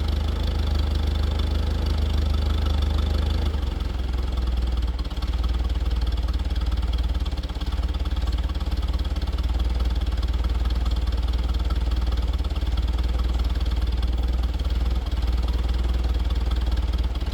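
One-row farm tractor engine idling, settling to a lower, slower idle about three and a half seconds in. The owner reckons spark plug 3 needs cleaning.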